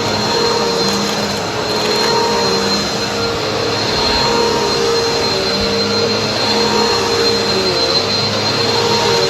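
Vacuum cleaner running steadily: a loud, even rush of motor and airflow with a constant high whine, its lower hum wavering slightly as it is pushed.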